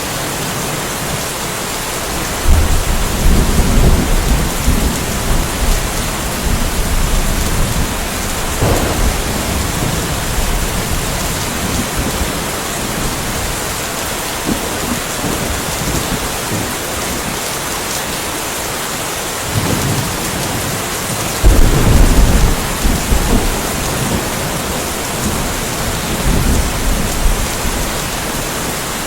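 Steady rain falling, with two rolls of thunder. The first rumbles in a few seconds in and goes on for several seconds. The second starts about two-thirds of the way through and is the loudest.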